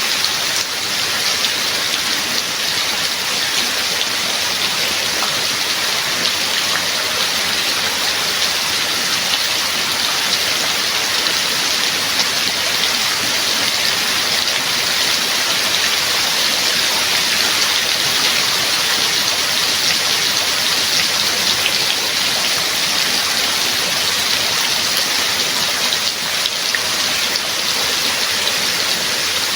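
Steady rain, a dense even hiss of drops falling on surfaces, with no thunder or breaks.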